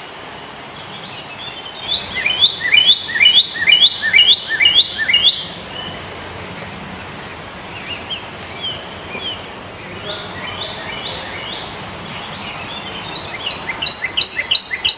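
A bird calling in fast runs of repeated sharp notes, about three a second: one run starting about two seconds in, a second near the end, and softer scattered calls between them, over steady outdoor background noise.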